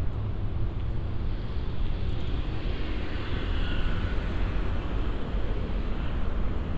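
Steady low rumble of outdoor city ambience, with a faint higher tone showing briefly about three seconds in.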